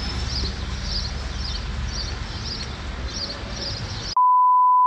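A small bird chirping over and over, about two short high calls a second, over a steady low outdoor rumble. Near the end all of it cuts off suddenly into a single loud, steady electronic beep, an edited-in bleep tone.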